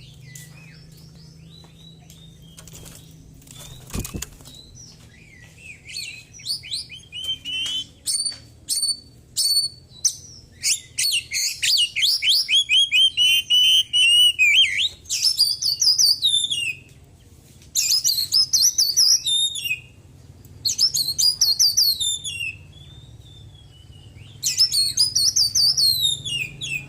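Oriental magpie-robin singing in loud bursts of rapid, varied whistles and chattering phrases, its song filled with mimicked calls of small birds. It starts with scattered short notes and builds into long phrases broken by brief pauses.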